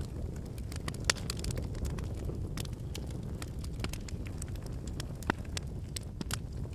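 Wood campfire burning: a steady low rumble of flame with irregular crackling and popping of the logs, two sharper pops about a second in and near the five-second mark.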